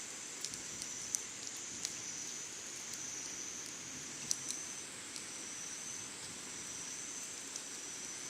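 Summer insects calling in a steady high-pitched drone, with a thin tone that breaks off and resumes every few seconds. Scattered sharp clicks sound over it, the loudest about four seconds in.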